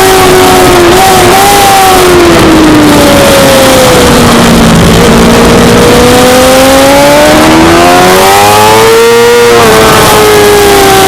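Suzuki GSX-R600 inline-four sportbike engine running hard under a heavy rush of wind noise. The revs fall steadily for about four seconds, climb again over the next four, then ease off slightly near the end.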